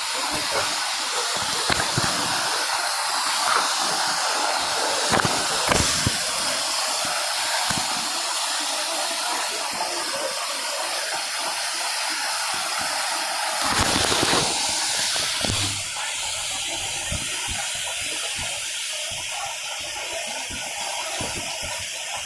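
Tall waterfall pouring: a steady rushing hiss of falling water. It swells briefly, deeper and louder, around two thirds of the way through, then settles a little quieter.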